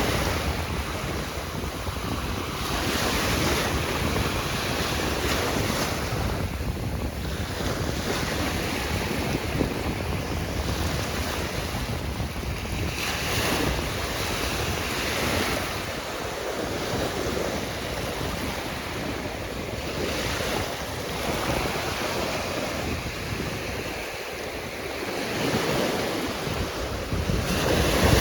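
Ocean surf washing in repeated surges that swell and ease every few seconds, with wind buffeting the microphone.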